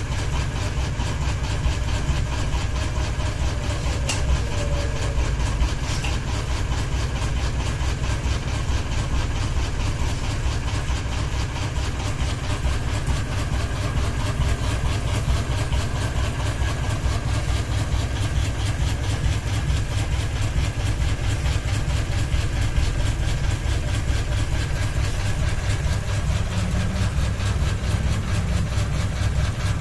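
Ceiling fan running with only one blade, so it is out of balance and wobbling, giving a steady low hum with a fast, even pulsing.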